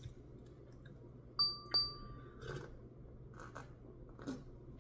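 A short, bright ding about a second and a half in, a quick double strike that rings for under a second, followed by a few faint clicks.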